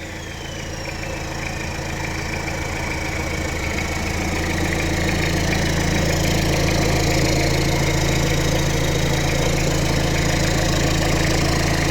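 Toyota 3L 2.8-litre four-cylinder diesel idling steadily with a knocking clatter after a rev. Its IHI RHB5 ball-bearing turbo's high whine finishes falling in pitch in the first second, then holds steady.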